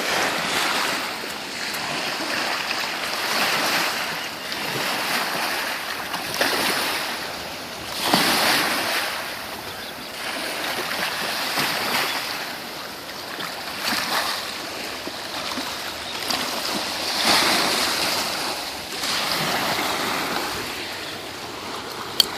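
Wind-driven waves washing and breaking against the shore, each surge swelling and falling away every couple of seconds, with gusting wind.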